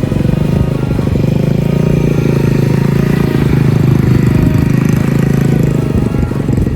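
A mini bike's small engine running steadily at a fairly even speed.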